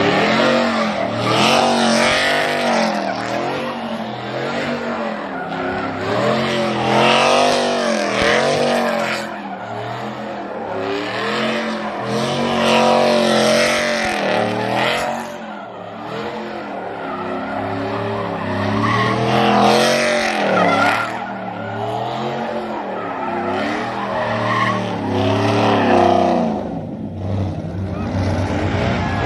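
Mustang doing a burnout or donuts: the engine revs up and down again and again while the rear tyres squeal and skid.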